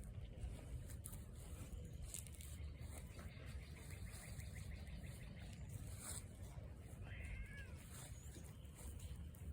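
A cat gives a short, faint meow that rises and falls about seven seconds in. A few seconds earlier there is a brief rapid rattle. A steady low rumble runs underneath.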